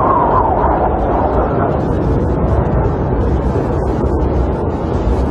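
Snowstorm wind blowing against a camper: a steady low rumble, with a gust whistling higher in pitch around the start that fades over the next couple of seconds.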